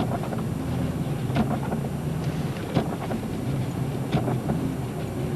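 Minivan heard from inside the cabin, its engine and tyres running steadily at low speed on a snowy road, with a faint knock repeating about every second and a half.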